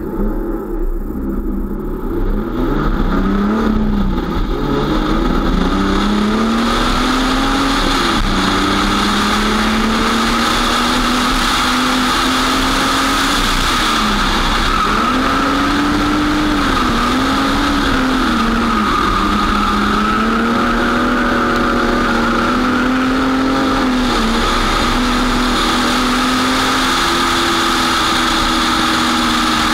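Drift car engine heard from on board, revving up hard from the start and then held loud at high revs. Its pitch dips and climbs again several times as the throttle is lifted and reapplied through the corners.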